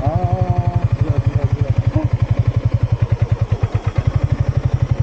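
Yamaha MT-15's single-cylinder four-stroke engine idling, its exhaust giving a steady, rapid, even beat.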